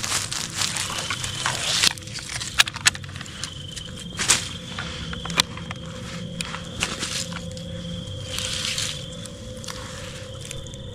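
Footsteps crunching through dry leaf litter, a few irregular steps with sharp twig-like clicks between them. A thin steady high tone runs underneath.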